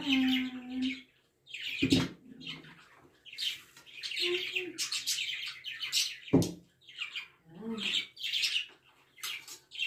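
Pet birds chirping in quick, repeated high bursts, with two sharp tableware clinks, about two seconds in and again about six seconds in.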